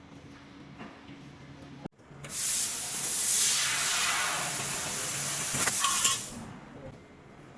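Handheld fiber laser head at work with a loud, steady hiss of gas jetting from its nozzle. The hiss starts abruptly about two seconds in, lasts about four seconds, then fades away.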